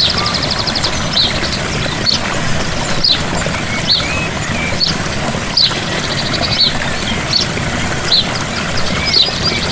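Gentle waterfall splashing steadily, with songbirds chirping over it: short high chirps about once a second and a rapid trill near the middle.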